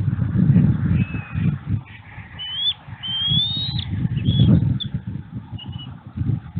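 High, thin bird chirps: a few short calls and one longer rising whistle about three seconds in, over a loud, uneven low rumble.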